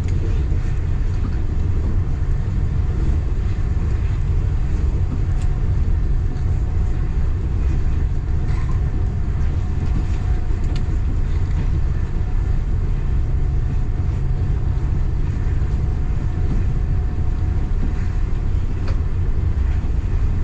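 A local passenger train running along the track: a steady low rumble, with a few faint clicks now and then.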